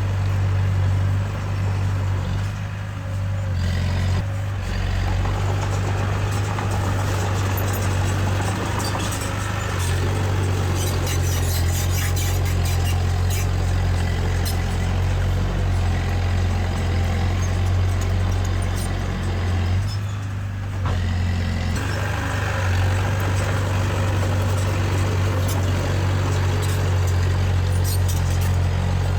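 Diesel engine of heavy earthmoving machinery running steadily with a deep drone, easing briefly twice, with scattered short metallic clanks.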